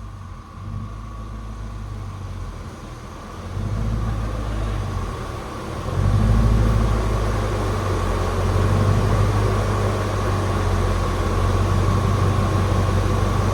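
GMC Sierra truck's 5.3-litre V8 running on headers, a low steady drone that gets louder in steps about three and a half and six seconds in, then holds loud. A thin steady high tone runs alongside.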